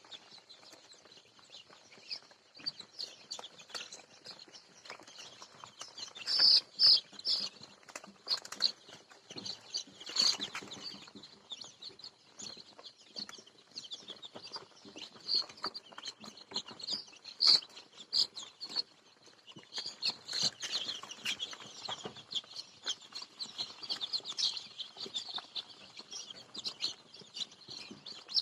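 Chickens calling with many short, high-pitched chirps, irregular and overlapping, with a few louder bursts and scattered sharp clicks.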